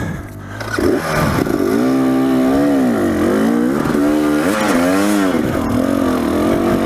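Dirt bike engine revving, its pitch rising and falling several times in quick swells.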